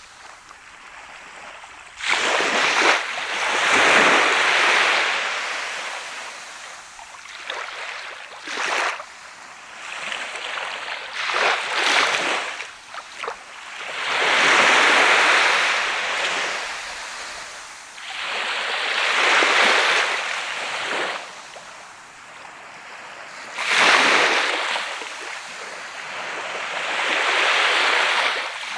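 Sea of Japan waves breaking and washing up a sandy beach. Each surge of surf rises to a hiss and fades away, about every four to five seconds.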